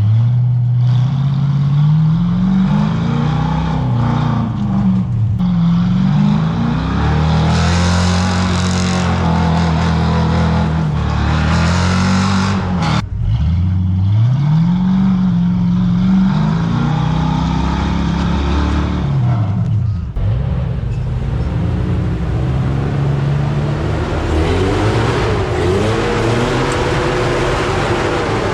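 Off-road rig's engine revving up and down over and over, the revs falling away sharply about halfway through and then climbing again.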